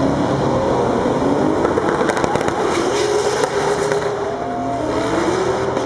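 Turbocharged VR6 engine of a VW Golf II revving on the drag-strip start line, its pitch rising and falling, with a rapid run of crackling exhaust pops about two seconds in.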